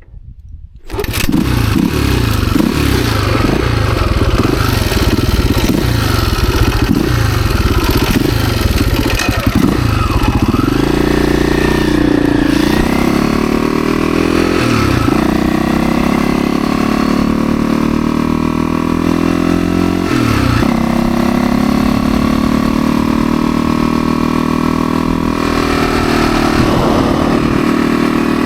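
Husaberg FE 350 dirt bike's single-cylinder four-stroke engine starting about a second in, then the bike ridden, its revs rising and falling with brief dips at the gear shifts.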